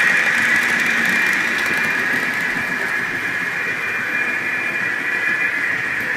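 Small electric motors of HO-scale model vehicles running, a steady high whine over a hiss.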